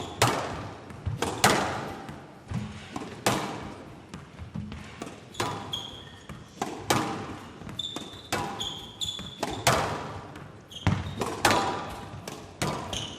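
Squash rally: the ball is struck by rackets and cracks off the court walls in a quick exchange, each hit echoing in the hall, with short high squeaks of players' shoes on the court floor.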